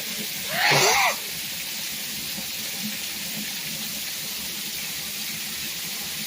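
Heavy rain falling in a steady hiss. About half a second in, a short, loud pitched sound that bends up and then down in pitch cuts through it.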